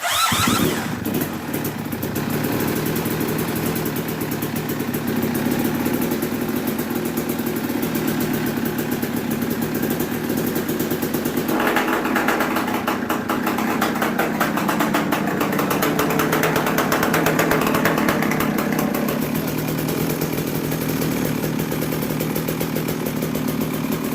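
Kawasaki KX500 single-cylinder two-stroke engine, converted to electric start, firing up for the first time: it catches at once and runs steadily. About halfway through it runs higher for several seconds, then settles back.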